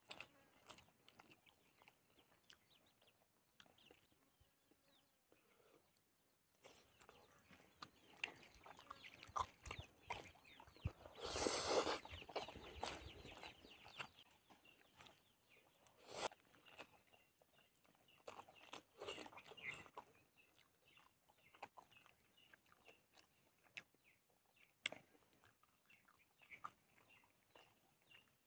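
Quiet hand-eating sounds: soft chewing and mouth noises and fingers picking through rice and boiled fish, with a chicken clucking in the background. A brief louder sound comes about eleven seconds in.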